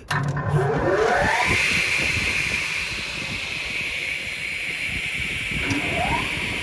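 Circular saw blades of a triple crosscut saw for pallet boards spinning up with a rising whine, then running at speed with a steady high whine. Another short rising whine comes near the end.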